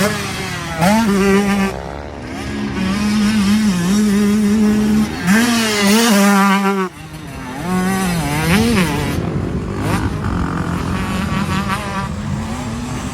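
Gas Gas MC125 two-stroke motocross bike's engine being ridden hard. Its high note repeatedly revs up and drops back as the rider works the throttle and gears, with quick throttle blips. The sound falls away sharply for a moment about seven seconds in.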